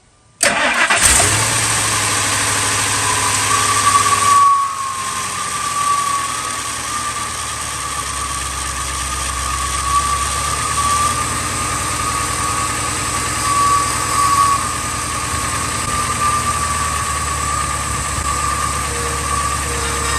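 Cold start of a 2000 Ford F250's 5.4-litre V8: the engine catches about half a second in and runs steadily at idle, with a wavering whine over the engine note. The level drops a little about four and a half seconds in. After IAC, throttle-body and fuel-system cleaning it is running much better on a cold start, though the owner finds it still running lean from a vacuum leak.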